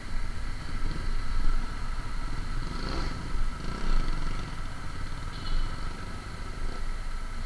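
A motor vehicle's engine running on the road, with a steady low rumble and road noise. There is a brief louder swell about three seconds in.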